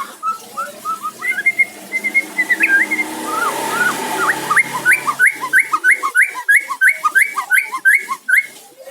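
White-rumped shama (murai batu) singing: varied clear whistled notes and glides, then a run of about a dozen quick rising whistles, a little over three a second.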